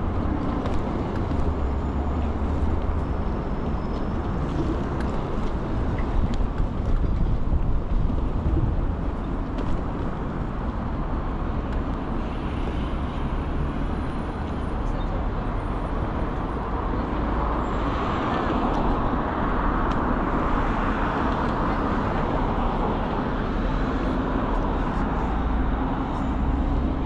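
Steady wind rumble on the microphone with road and traffic noise while riding along, the hiss swelling louder for several seconds past the middle.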